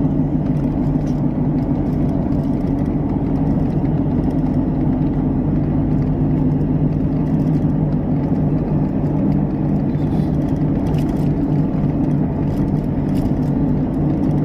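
Motor vehicle running steadily: a continuous low engine hum over a low rumble, with no change in pitch.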